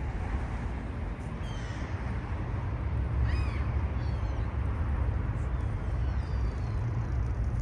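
Several short bird calls, high chirps and one quick rising-and-falling call about three seconds in, over a steady low outdoor rumble.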